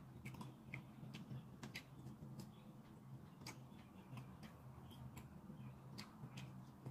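Faint close-up chewing of a crispy fried piece of food: irregular small crunches and mouth clicks over a low steady hum.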